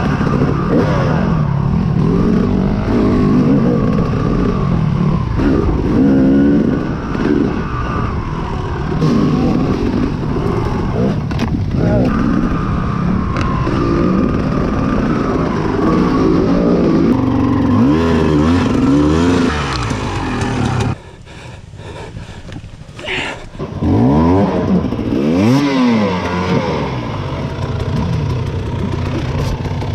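Off-road dirt bike engine revving hard and backing off again and again as it is ridden over trail terrain, its pitch rising and falling with the throttle. The engine note drops away for a couple of seconds about two-thirds through, then picks up again.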